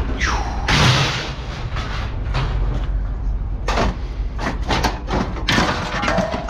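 Scrap metal being thrown down onto a pile: several clattering metal crashes, the biggest about a second in, over a steady low rumble.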